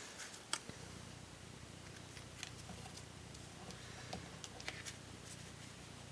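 Paper and small craft pieces handled on a work table: scattered light taps, clicks and rustles, over a faint low hum that starts shortly after the beginning.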